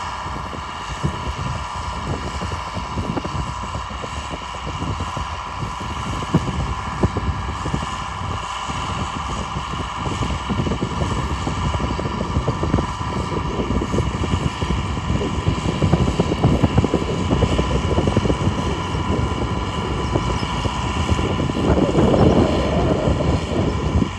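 John Deere 4955 tractor's six-cylinder diesel running steadily at work, with a constant whine over the engine rumble, getting somewhat louder toward the end.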